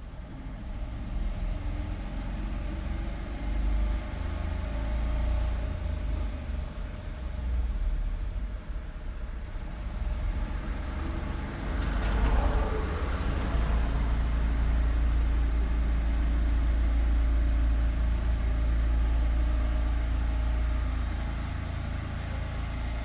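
Street traffic: a steady low rumble of passing cars, with one vehicle going by close about halfway through and a heavier low engine rumble after it.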